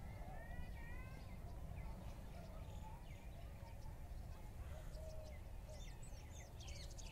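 Small birds chirping and calling in short, quick rising and falling notes, with a busier burst of high chirps near the end. A steady low rumble sits underneath.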